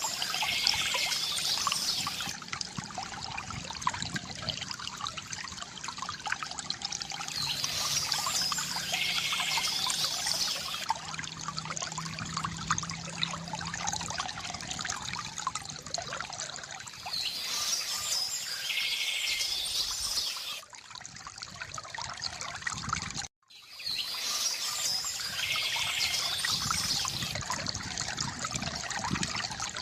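Water from a bamboo fountain trickling and splashing steadily, with birds chirping in four short bursts. The sound cuts out abruptly for a moment about three quarters of the way through.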